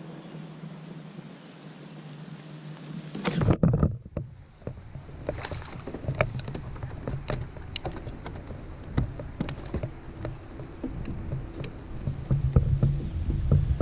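Handling sounds in a fishing kayak: a steady low hum, then a loud bump about three and a half seconds in, followed by a long run of small knocks and clicks, heavier near the end.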